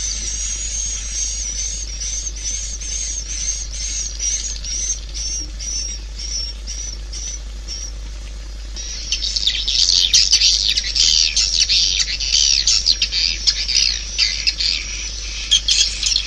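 Swiftlet calls played as a lure for a swiftlet house: a high twittering chirp repeating about three times a second, then from about halfway a louder, dense chatter of many overlapping chirps.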